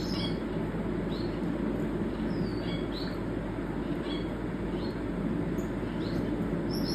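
Owl finch giving short, high chirps, scattered every half second to a second, over a steady low background rush.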